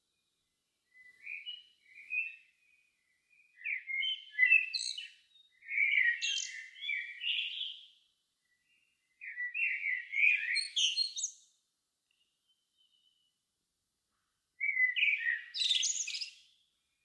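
A songbird singing in separate warbled phrases of one to two seconds with short pauses between them, five phrases in all, the last one starting near the end.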